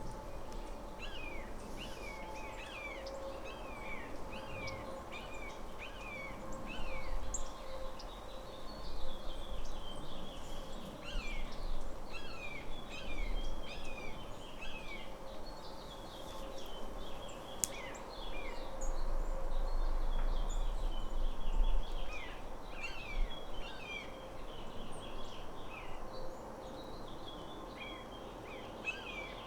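Small songbirds chirping over and over: many short, quick downward chips overlapping from several birds at once, with a faint steady hum beneath.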